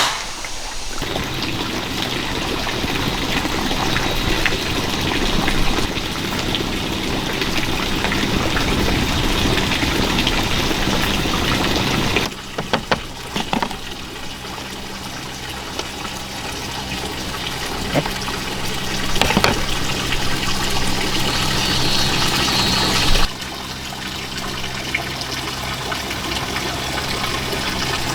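Steady running or pouring water with a few short knocks. The sound changes abruptly twice, about twelve and twenty-three seconds in.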